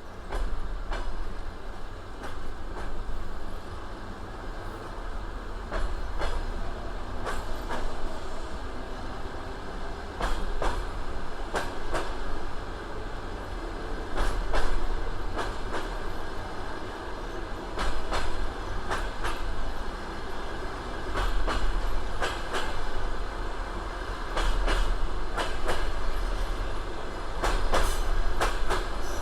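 Passenger train wheels clattering over rail joints, a clickety-clack of sharp clicks coming in groups every second or two over a steady low rumble of the rolling carriage.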